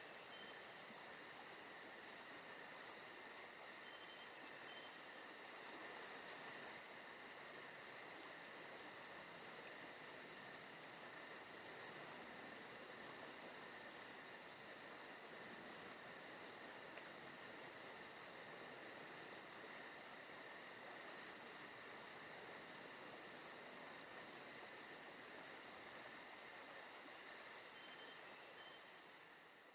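Faint forest ambience: a steady chorus of crickets and other insects, with a continuous high, fast-pulsing trill.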